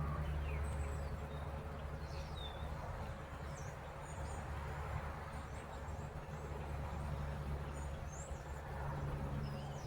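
Scattered short, high bird chirps over a steady low rumble of outdoor background noise.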